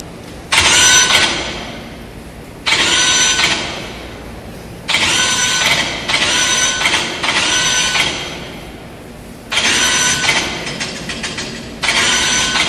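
Mechanical whirring sound effects played in time with a robot dance routine, about seven in all. Each starts suddenly and dies away over a second or two.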